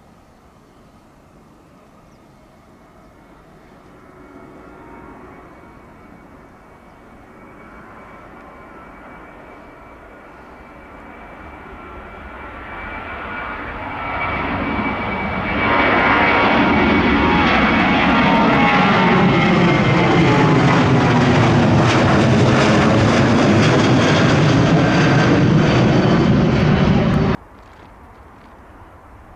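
Boeing 737-800's CFM56 turbofan jet engines at takeoff power, growing steadily louder with a thin steady whine as the aircraft approaches. It becomes very loud about halfway in, with a sweeping, swirling tone as the jet passes, then cuts off suddenly near the end.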